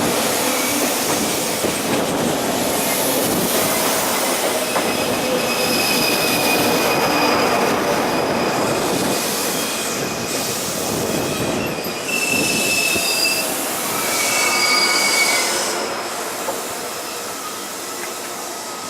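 Electric train running through the station: steady rail and wheel noise with high-pitched squeals coming and going from about five seconds in, the sound fading somewhat near the end.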